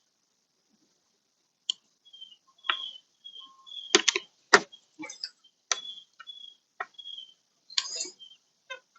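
Irregular sharp clicks and taps with short high squeaks from a hand screwdriver driving a screw into a car's door trim panel, starting a second and a half or so in.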